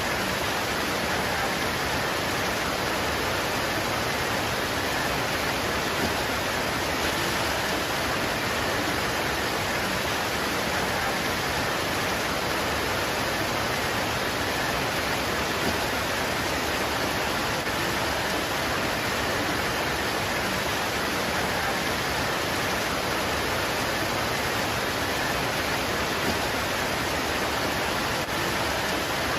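Steady rain pouring on leaves, a dense, even hiss with no single drops standing out and no change in level.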